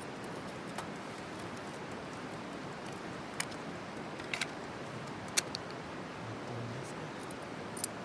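Wood campfire burning: a steady hiss broken by a handful of sharp crackling pops, the loudest about five and a half seconds in.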